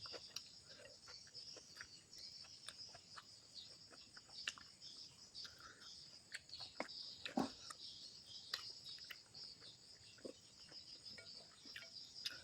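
Close-up eating sounds of a person chewing grilled fish: soft, scattered mouth clicks and lip smacks, over a steady high-pitched chirring like crickets.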